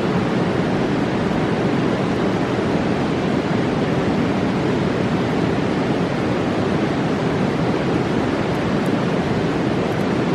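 A roaring mountain river rushing steadily: a constant, unbroken wash of water noise.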